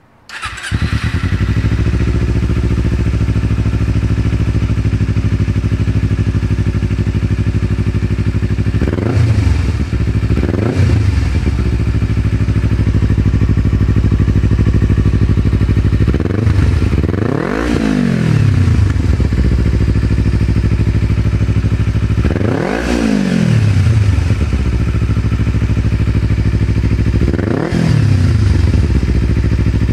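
Kawasaki Ninja 250R parallel-twin engine, fitted with a Two Brothers slip-on exhaust, starting up and then idling. It is blipped five times, each a quick rise and fall in revs.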